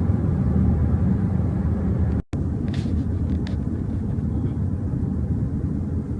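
Steady low road rumble of a car driving, heard from inside the cabin. The sound drops out for a moment about two seconds in, then carries on unchanged with a few faint ticks.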